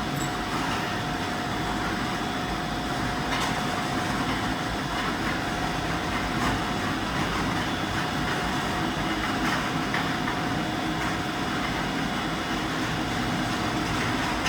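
CNC milling machine running with a steady hum and whir and a faint steady whine, as its X axis is jogged across toward a probe point.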